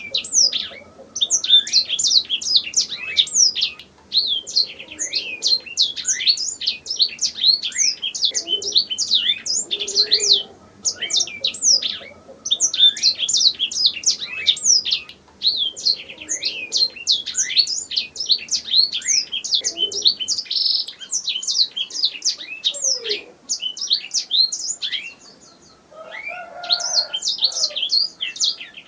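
Domestic canary singing: long, rapid trilled phrases of quick, high, falling notes, broken by short pauses every few seconds.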